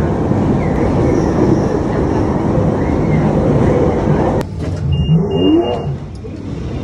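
Loud, steady rumble of a moving vehicle that cuts off abruptly about four seconds in. It gives way to quieter vehicle noise with a short high beeping tone.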